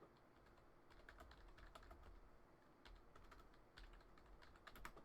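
Faint typing on a computer keyboard: quick, irregular key clicks in short runs.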